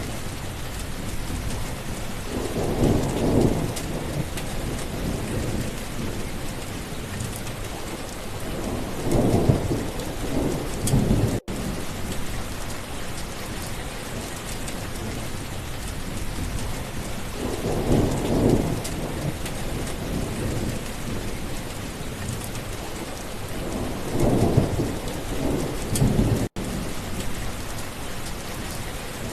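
Steady heavy rain falling, with four low rolling thunder rumbles that swell and fade. The sound drops out for an instant twice.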